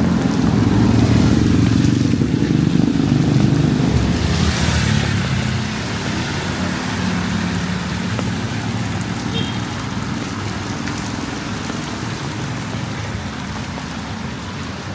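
Motor vehicle engine running close by, loudest for the first five seconds and then easing off, with a brief hissing rush about four seconds in.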